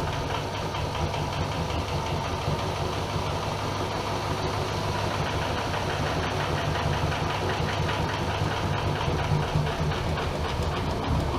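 AEG Öko-Lavamat Lavalogic 1600 front-loading washing machine running: a steady motor hum with a fast, even rattle from the turning drum.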